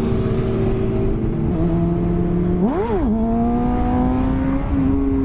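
Motorcycle engine running on the road under way, over a steady rush of wind noise; its pitch drops about one and a half seconds in, a quick throttle blip rises and falls sharply near the middle, and then the engine pulls with slowly rising pitch.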